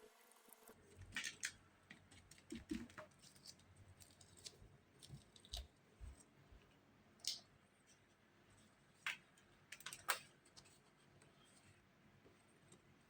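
Faint, scattered clicks and light scrapes of objects being handled, a dozen or so short separate sounds with no steady hiss between them; the sharpest come about seven, nine and ten seconds in.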